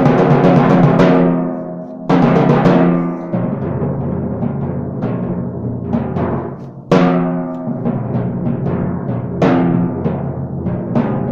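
Four timpani played solo. A fast run of repeated strokes dies away in the first second or so, then single accented strokes ring out at about two, seven and nine and a half seconds, with lighter strokes between them, each left to ring.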